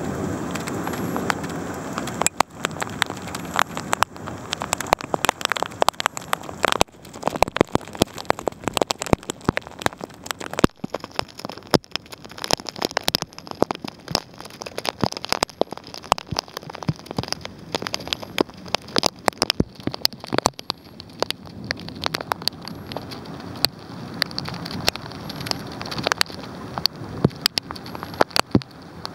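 Heavy downpour in a thunderstorm: a steady rushing hiss thick with sharp, irregular ticks of drops striking hard surfaces close by.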